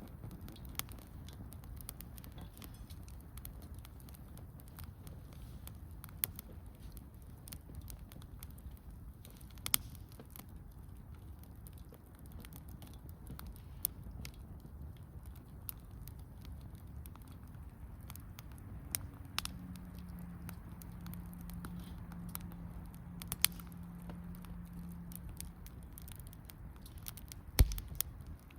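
Wood campfire crackling, with sharp pops and snaps scattered through a low steady rumble. A faint steady hum comes in for several seconds in the second half, and a dull thump near the end is the loudest sound.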